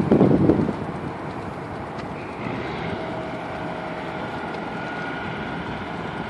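Steady wind and rolling noise from riding a bicycle, with wind buffeting the microphone in a loud rumble during the first half second. A faint steady whine comes in around the middle.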